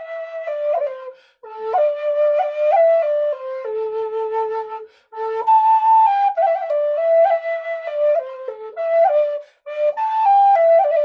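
A flute playing a slow melody, one note at a time and moving in small steps, in four short phrases with brief breath pauses between them.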